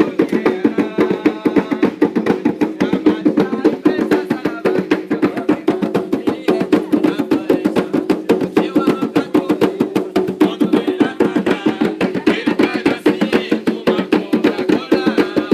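Drums beaten in a fast, steady rhythm for a ritual chant, the strokes coming several times a second without pause.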